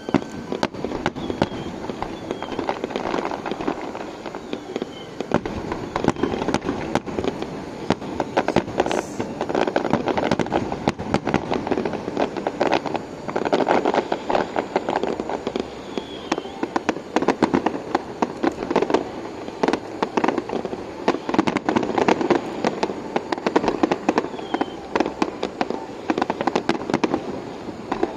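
Fireworks going off in a dense, unbroken barrage of sharp bangs and crackles.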